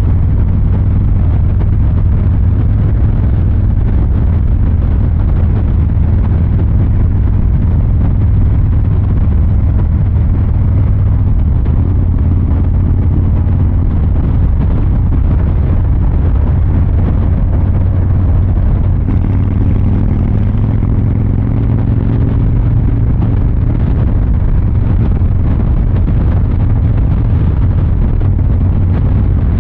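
2023 Harley-Davidson Fat Boy 114's Milwaukee-Eight 114 V-twin engine and exhaust running steadily while riding, with a slight shift in engine pitch about two-thirds of the way through.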